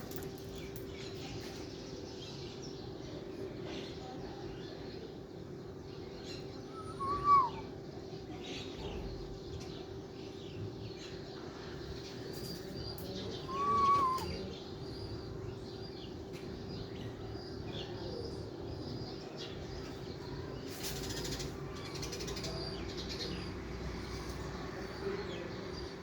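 Birds chirping faintly over a steady low hum, with two short, louder calls that rise and fall in pitch, about seven and fourteen seconds in.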